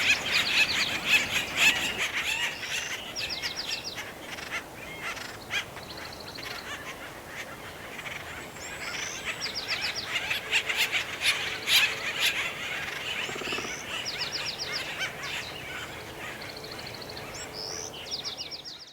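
Acorn woodpeckers calling in a noisy commotion: repeated short, rapid series of harsh calls, with scattered sharp taps.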